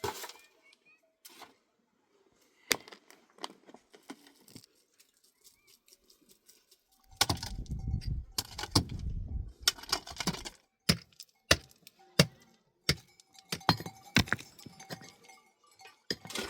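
Irregular clinks and knocks of objects being handled. A stretch of louder, heavier rustling and thumping comes in the middle.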